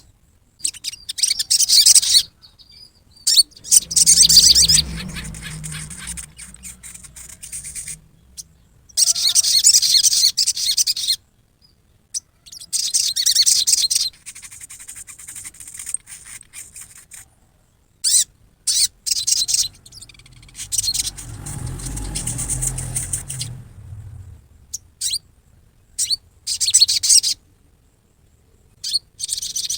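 A sogon bird giving harsh, rapid chattering 'riwikan' calls in repeated high-pitched bursts of one to two seconds, with short pauses between. A low rumble sounds under the calls twice.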